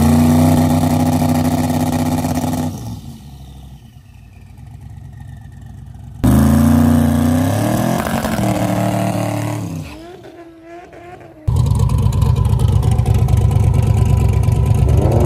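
Twin-turbo 427 ci LS V8 of a Camaro drag car, revved up and held at a steady pitch for a few seconds. After a quieter gap it revs again, rising then falling. About eleven seconds in it comes in suddenly at full throttle as the car launches off the line.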